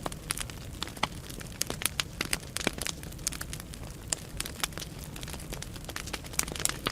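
Firewood burning in a fireplace: irregular sharp crackles and pops over a steady low rush of flame.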